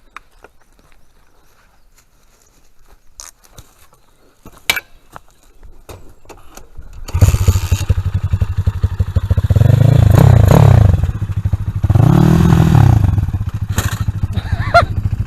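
Dirt bike engine starting suddenly about halfway through, after a few seconds of small knocks and clicks, then revved up and back down twice.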